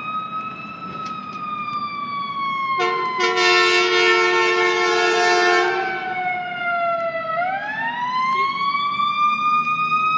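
Fire engine siren on a slow wail, rising and falling in pitch, with a horn blast of about three seconds sounding over it about three seconds in; after the blast the wail sinks to a low pitch and winds back up.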